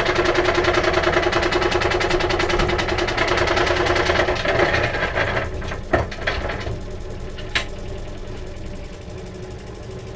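A power tool cutting weeping willow wood under load, with a steady machine hum. Past four seconds in, the cut eases off with a few sharp clicks, and the machine runs on more quietly without load.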